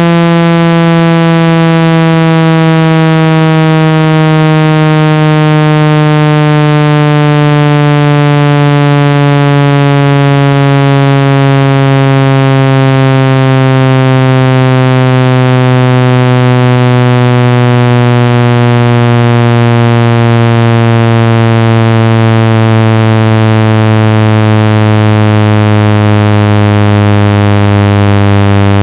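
Loud, buzzy electronic tone full of overtones, sliding slowly and evenly down in pitch: a low-frequency sweep meant to shake water and dust out of a phone speaker.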